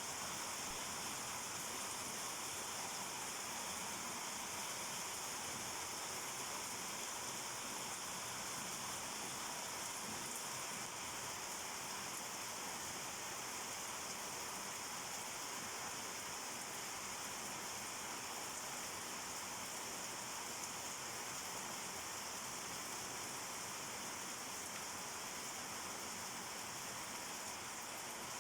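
Steady rain falling, an even hiss of many drops without pause or change.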